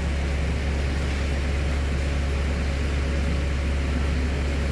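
A large engine idling steadily: an even, deep hum with no change in speed.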